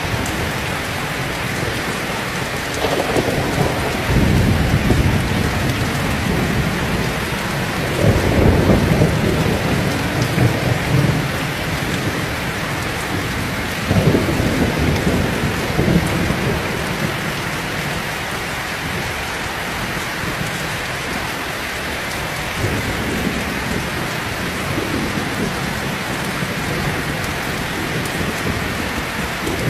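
Heavy rain falling steadily, with thunder rumbling low several times, building and fading; the loudest roll comes about a third of the way through.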